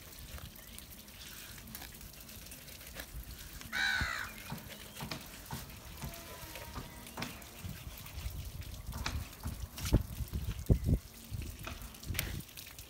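Knife and hand work skinning a gummy shark on a cleaning table, with scattered knocks and thumps that grow busier in the second half. A bird caws once about four seconds in.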